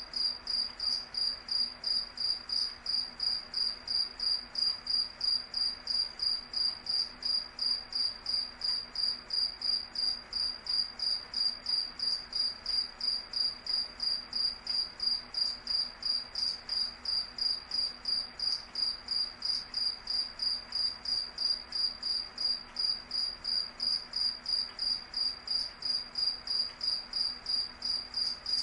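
Cricket chirping steadily: one high-pitched chirp repeated evenly, about three times a second.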